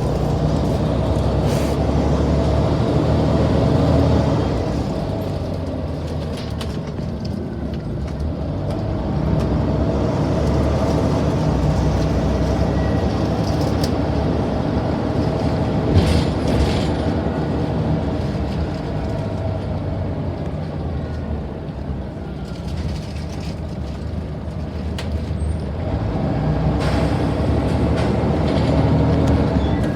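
2003 Scania N94UD Omnidekka double-deck bus driving, its engine and running gear steady and loud. The sound swells and dies back several times as the bus speeds up and eases off, with a single sharp knock about halfway through.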